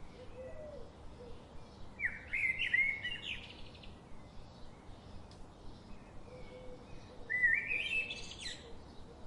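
A songbird singing two short phrases of quick notes that step upward in pitch, about five seconds apart, over faint calls of other birds in the background.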